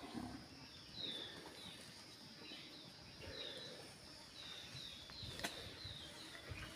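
A small bird calling with short, falling chirps, about a dozen of them at an uneven pace, over a faint outdoor background with a single sharp click about five and a half seconds in.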